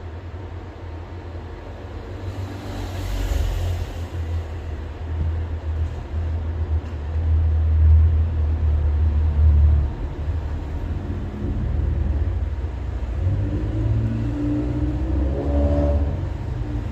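A low rumble that builds over several seconds, peaks, then eases, with a fainter droning pitch near the end.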